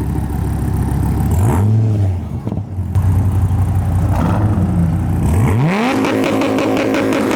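Dodge Viper's 8.4-litre V10 idling and being revved: a short rev about a second and a half in, then a longer rev from about five seconds in that is held high.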